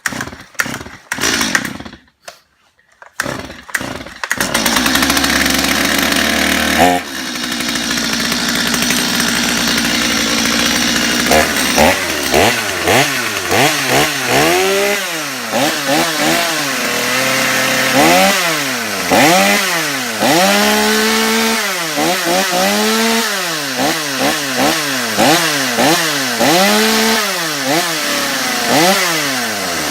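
Stihl MS 250 two-stroke chainsaw cold-started on choke after months unused. A few quick pulls on the starter cord, then it catches about four seconds in and runs steadily. Its note changes about seven seconds in, and from about twelve seconds on it is revved up and down over and over.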